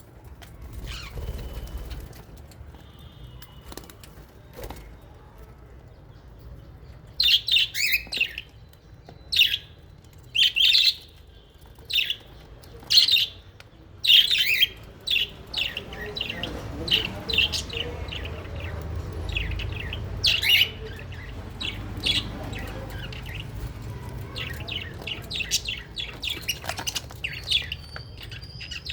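Small pet parrots chirping: loud, sharp chirps come in quick runs from about seven seconds in, with quieter chatter carrying on through the rest.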